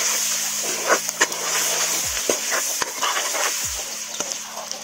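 Whole boiled eggs and onions sizzling in hot oil in a kadai while a metal spatula scrapes and taps against the pan as they are stirred. They are being fried until browned. The sizzling grows a little quieter toward the end.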